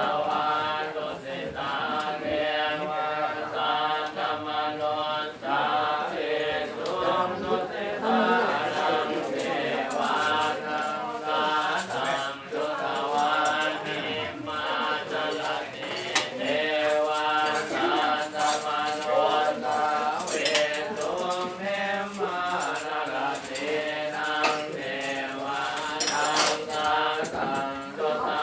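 A group of voices chanting a Buddhist chant in unison, in a steady recitation tone, with a few sharp clinks now and then.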